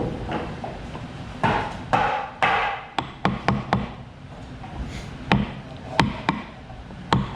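Three short rasping strokes, then a run of sharp, irregular knocks of hard wood on wood.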